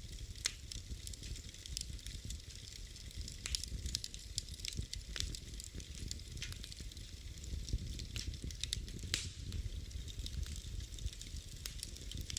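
Wood fire burning in a fireplace: irregular sharp crackles and pops, several a second at times, over a steady low rumble and a soft hiss.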